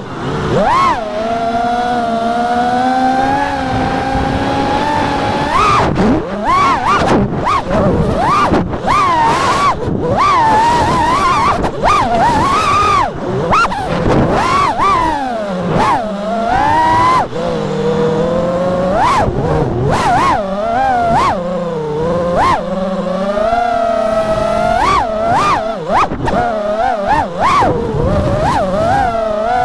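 FPV quadcopter's brushless motors whining, the pitch rising and falling quickly and repeatedly with the throttle.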